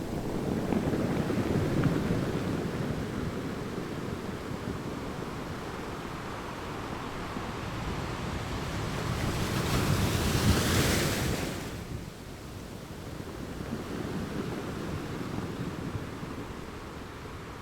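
Ocean waves breaking and washing on the shore, with wind on the microphone. One wave is louder and hissier about ten seconds in and dies away soon after.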